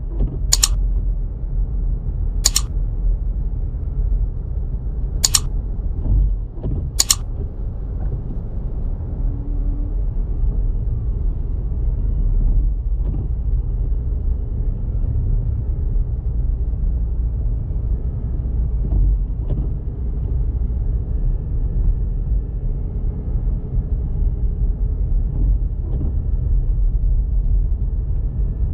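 Car driving on snowy roads: a steady low rumble of road and engine noise, with four sharp clicks in the first seven seconds.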